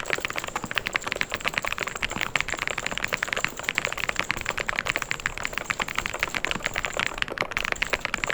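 Fast, continuous typing on a mechanical keyboard: a dense run of rapid keystroke clicks, broken by a brief pause near the end.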